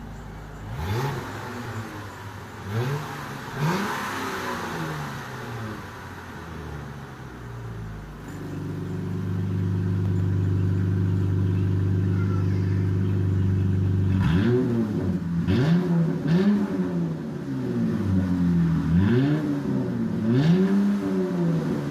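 Dodge Challenger 3.6-litre V6 exhaust fitted with QTP electric cutouts, revved in three quick blips, then held at a steady louder drone for several seconds, then blipped repeatedly in a fast series of revs.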